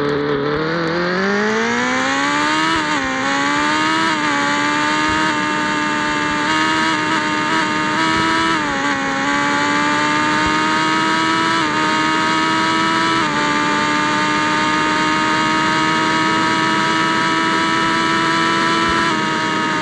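Yamaha XJ6 motorcycle's inline-four engine with an open straight-through exhaust pipe, rising in pitch as it accelerates over the first few seconds and dipping briefly at a few gear changes. It then holds a steady cruising note and falls away as the throttle eases near the end.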